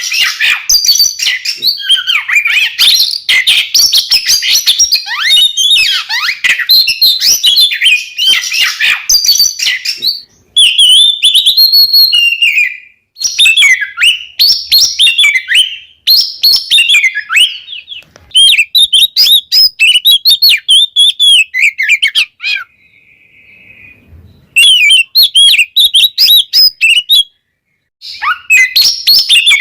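Oriental magpie-robins (kacer) in loud full song: rapid runs of varied whistled phrases, broken by a few short pauses.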